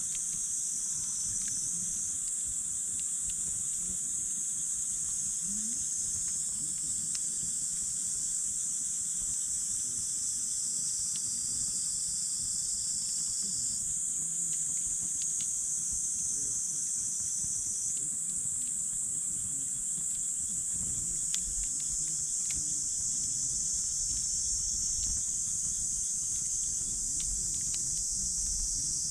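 A steady, high-pitched chorus of insects, several layered trills shifting every few seconds, with scattered sharp crackles and pops from a wood campfire.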